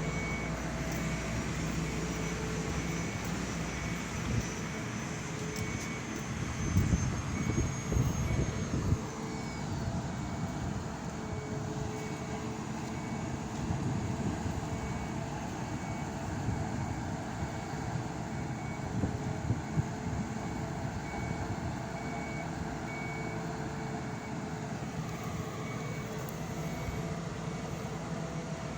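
A heavy vehicle's engine running with a regularly repeating reversing beep alarm, with a louder stretch of rumbling and knocking about a quarter of the way in.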